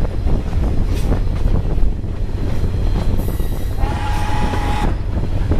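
Steam excursion train running with a steady low rumble and a few sharp clicks. About four seconds in, a steady high pitched tone sounds for about a second.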